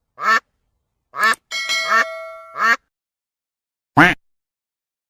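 Four short duck quacks, each falling in pitch, with a ringing chime that sounds between the second and third and fades out.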